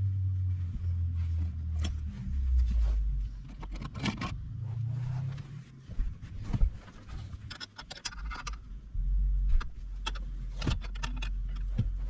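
Metal tools and bolts clinking and rattling in scattered bursts during hand work on a car's steering column, over a low rumble.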